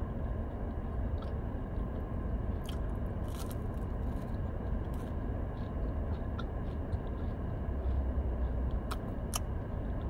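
A person chewing food with small clicks and crunches from the mouth, over a steady low hum inside a car.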